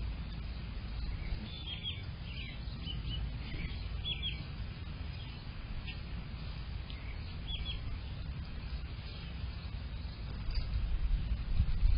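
Small songbirds giving short, scattered high chirps, several in the first half and fewer later, over a steady low rumble that gets louder near the end.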